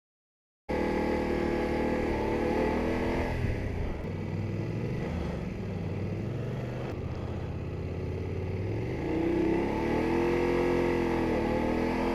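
Motorcycle engine running on the move. It comes in suddenly after a moment of silence, its pitch drops a few seconds in, climbs again with the throttle, and falls once more near the end.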